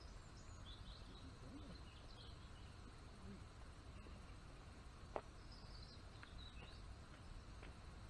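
Faint outdoor ambience, near silent: small birds chirp faintly and briefly, in the first couple of seconds and again around six seconds, over a low steady rumble. One sharp click about five seconds in.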